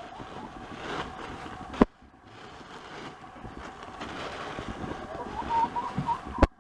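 Rustling and crackling of spruce bedding being handled and spread in a chicken coop, with a sharp knock a little under two seconds in and another near the end. Hens give a faint high call toward the end.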